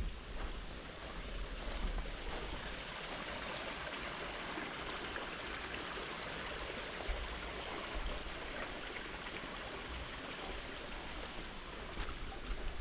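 A stream of running water, a steady rush and trickle.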